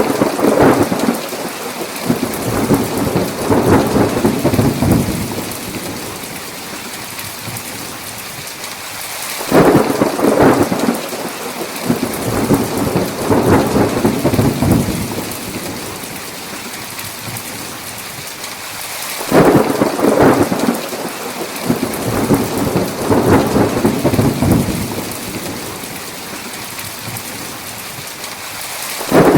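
Thunderstorm: heavy rain falling steadily, with three rolls of thunder about ten seconds apart, each opening with a sharp crack and rumbling on for about five seconds.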